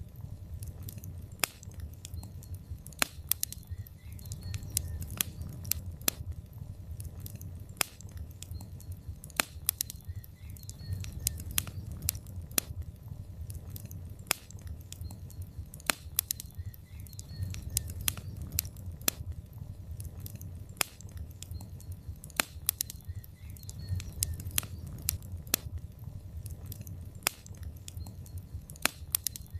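Logs burning in a fireplace, crackling: irregular sharp pops and snaps, several a second, over a low steady rumble.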